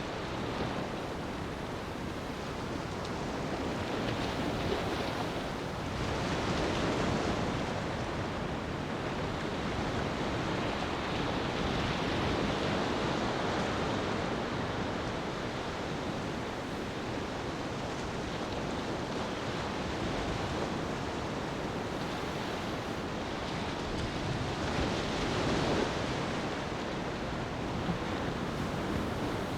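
Ocean surf washing onto a beach: a continuous rushing wash, with waves swelling and falling back every several seconds.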